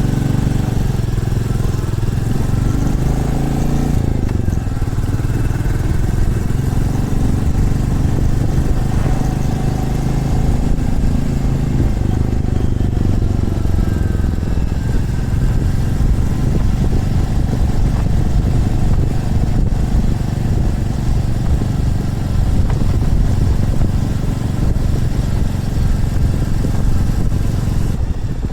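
Motorcycle engine running on the move, its note rising and falling with the revs through the first dozen seconds, then holding steadier.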